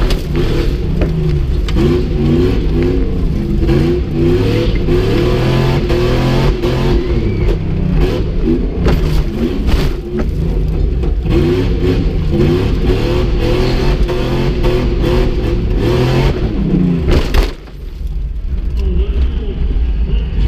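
Jeep Grand Cherokee engine revving hard over and over, its pitch climbing and falling as the throttle is worked, with knocks and rattles of the body over rough ground, heard from inside the cabin. Near the end the revving cuts off suddenly and the engine drops back to a quieter idle.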